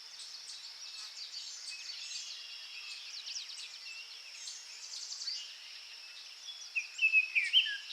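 Small birds chirping and twittering in quick, high calls over a steady high hiss. A run of louder chirps comes near the end.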